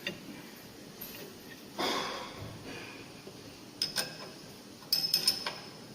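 Sharp metallic clicks and light taps from hand adjustments on a circular sawblade grinder: a couple of clicks about four seconds in and a quick cluster around five seconds, each with a brief high ring. A short soft rush of noise comes about two seconds in.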